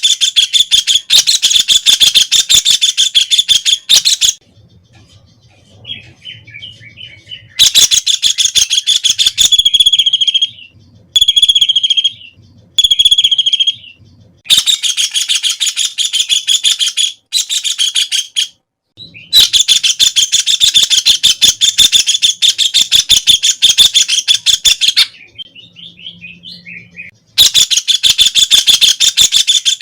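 White-throated kingfisher (Halcyon smyrnensis) giving loud, rapid rattling trills in bouts of several seconds, separated by short pauses, with three short separate calls about midway.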